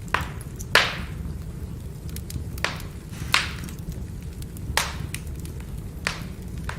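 Firewood burning: a steady low rumble of flame with sharp crackles and pops, about six loud snaps among fainter ticks, the loudest about a second in.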